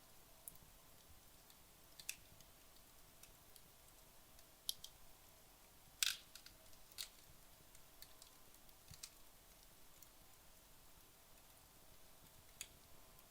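Wood logs burning down in a fireplace: sparse, sharp crackles and pops over a faint hiss, the loudest pop about six seconds in.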